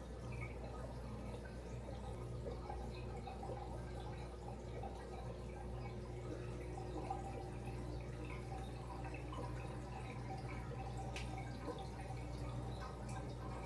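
Aquarium water trickling and dripping over a steady low hum of pumps and filters.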